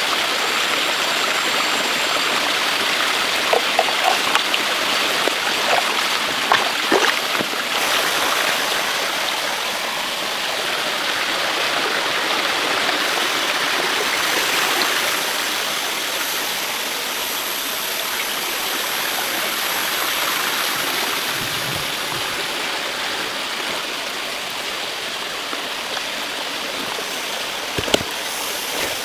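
Steady rush of running water, with a few light clicks and knocks in the first several seconds and a sharper knock near the end.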